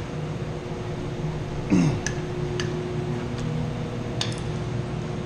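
Sharp metallic clinks and taps of tools and parts being handled on a chilled-water pump strainer housing, over the steady hum of running mechanical-room machinery. A brief falling tone sounds a little under two seconds in.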